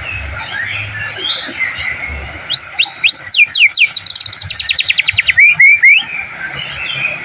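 White-rumped shama (murai batu) singing over faint background chirping. About two and a half seconds in it breaks into a loud phrase: a run of quick downward-sweeping whistles, then a fast rattling trill, ending in three short rising notes.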